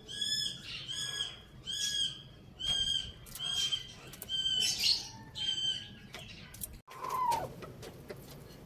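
A bird chirping: about eight short high-pitched calls, a little faster than one a second. After a brief break near seven seconds comes a single lower call that falls in pitch.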